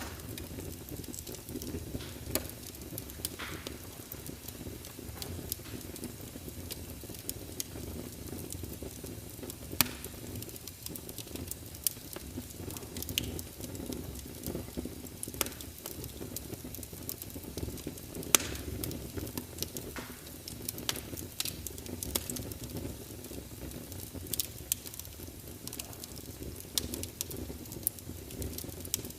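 Wood fire burning in a fireplace: a steady low rumble and hiss of flames with scattered sharp crackles and pops of burning wood, two of them louder, about ten and eighteen seconds in.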